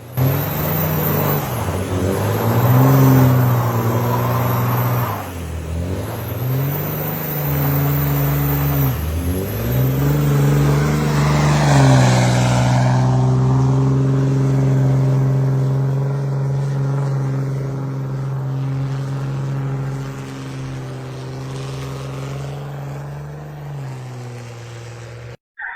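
Ram 2500 pickup's Cummins inline-six turbodiesel revving hard under load while towing a stuck semi-truck out of snow. The revs surge and drop back several times in the first twelve seconds, then hold high and steady until a sudden cut near the end.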